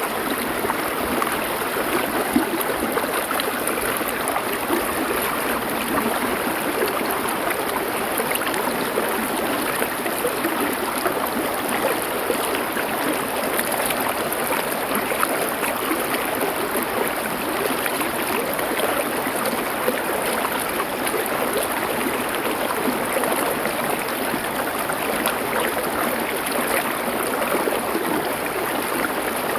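River water flowing over stones, a steady, unbroken rushing and babbling.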